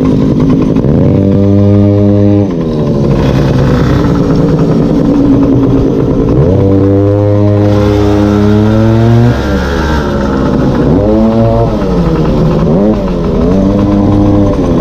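Small two-stroke engine of a gas-powered stand-up scooter (goped) revving under throttle. It climbs and holds a high pitch, then drops off; this happens twice, followed by several quicker throttle-offs and pickups, the pitch dipping and rising.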